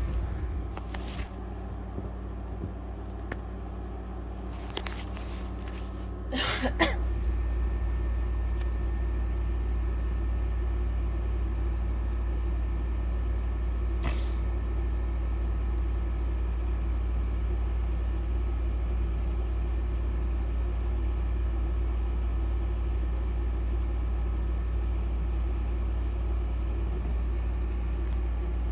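Steady low hum with a faint high whine over it, broken by a few clicks and knocks, the loudest cluster about six to seven seconds in, after which the hum is louder.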